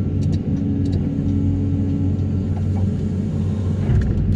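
Excavator working a hydraulic vibro hammer for sheet-pile extraction: a steady, loud low rumble with a held hum.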